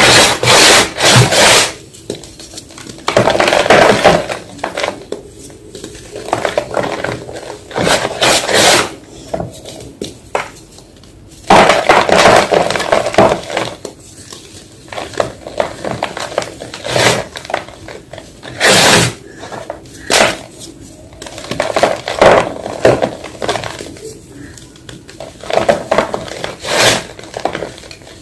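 Block of fresh white gym chalk crunching and crumbling in irregular bursts, some short and some lasting about a second, with brief pauses between.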